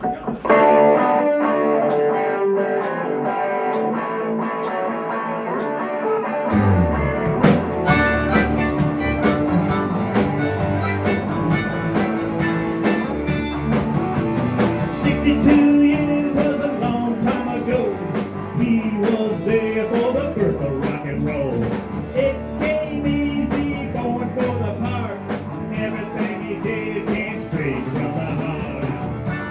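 Live blues-rock band playing an instrumental intro: a guitar alone at first, then bass and drums come in about six seconds in, with cymbals soon after.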